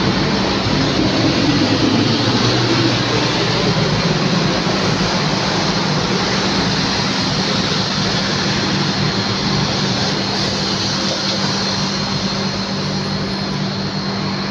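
Boeing 737-800 jet airliner's engines running, a steady loud rush with a thin high whine over it, easing off slightly toward the end.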